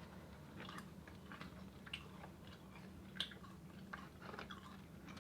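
A person chewing fried chicken fingers with dipping sauce close to the microphone: faint, irregular wet chewing clicks and small crunches over a steady low hum.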